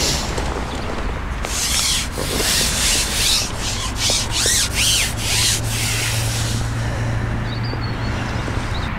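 A quick run of about eight rubbing, scraping strokes lasting a few seconds, over a steady low rumble.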